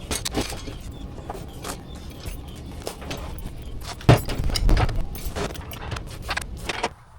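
A vehicle's engine and road rumble, with keys jangling and small knocks. There is one heavier thump about four seconds in, and the engine noise cuts out near the end.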